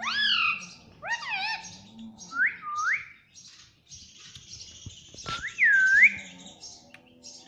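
Pet parrot whistling and squawking. It gives a run of short gliding whistled calls, then two rising whistles about two seconds in, a harsh hissing squawk around four to five seconds, and a loud dipping-then-rising whistle near six seconds. A sharp click comes just before that whistle, and a faint steady hum runs underneath.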